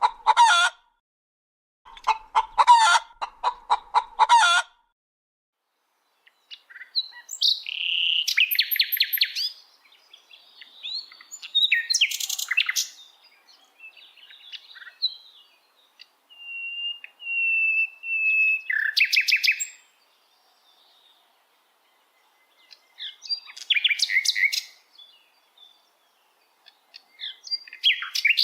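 Hens clucking in a run of repeated calls for the first few seconds, then small birds chirping and twittering in short spurts with brief pauses between them.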